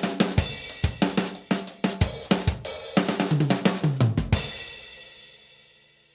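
Drum kit played: a busy groove of snare, hi-hat and bass drum, then a tom fill falling in pitch about three seconds in. It ends on a crash cymbal hit a little after four seconds that rings out and fades away.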